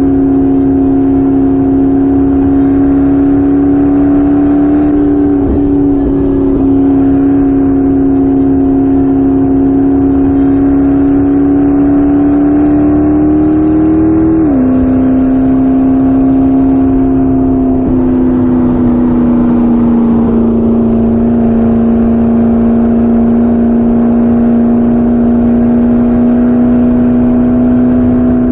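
McLaren P1's twin-turbocharged V8 engine running at fairly steady revs while driving. The pitch creeps up and then drops suddenly about halfway through, as with an upshift.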